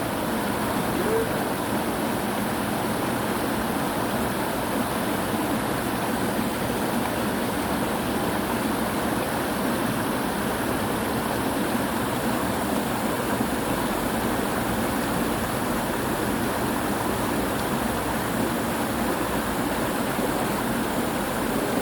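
Mountain stream running in a valley: a steady, even rush of water.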